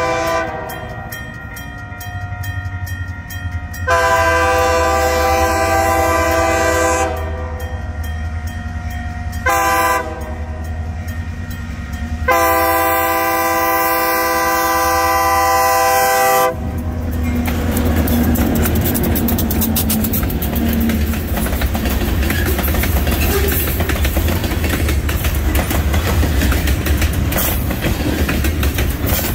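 Diesel freight locomotive sounding its horn for a grade crossing as it approaches, in the standard long, long, short, long pattern, over the low rumble of its engine. The horn stops about two-thirds of the way through, and a string of covered hopper cars then rolls past close by, with wheels clicking over the rail joints.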